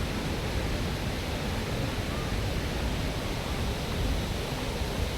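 Waterfall rushing: a steady, even roar of falling water with a heavy low rumble.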